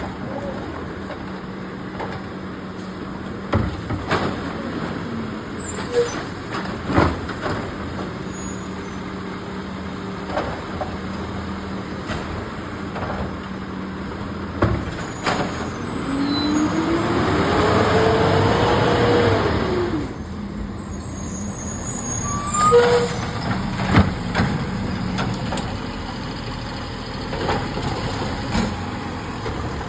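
Garbage truck running, with scattered clanks and knocks. Partway through, a louder stretch of several seconds brings a hiss and a whine that rises and then falls.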